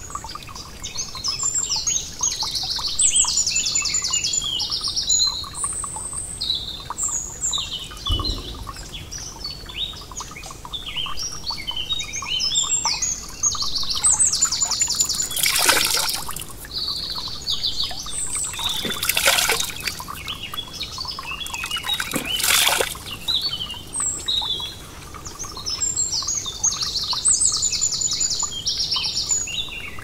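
Several songbirds singing and calling in woodland, with high chirps and quick trills of evenly repeated notes. Three brief louder rushes of noise break in around the middle.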